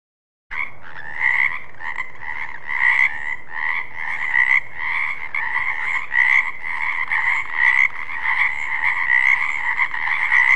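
Frog croaking in a steady run of repeated calls, about two a second, starting about half a second in and cutting off suddenly near the end.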